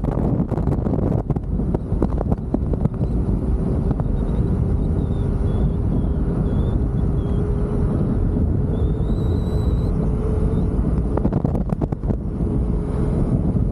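Wind rushing over the microphone while riding an electric unicycle, with the wheel's hub motor giving a thin steady whine that rises slightly in pitch through the middle. Scattered sharp clicks and knocks come from bumps in the road.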